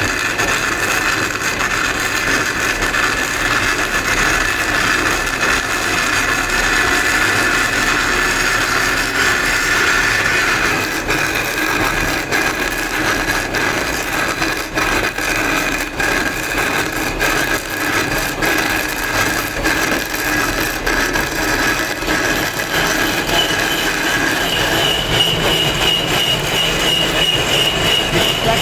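Power tool working stone, running steadily with a high whine whose pitch shifts about eleven seconds in and again in the second half.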